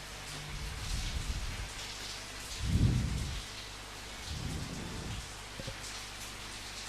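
Steady rain falling, with three short low rumbles; the loudest is about three seconds in.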